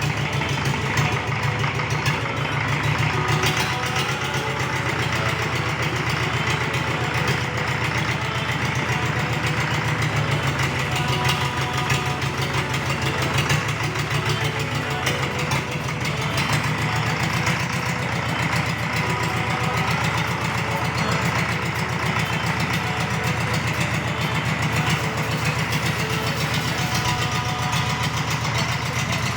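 Rebuilt forklift diesel engine idling steadily on a test run after its overhaul.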